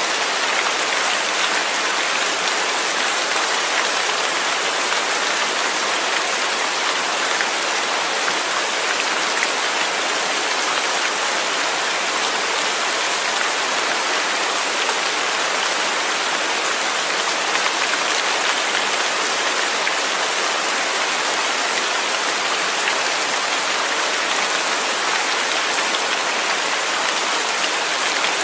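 Steady heavy rain falling, a dense even hiss of drops on surfaces with fine individual patter.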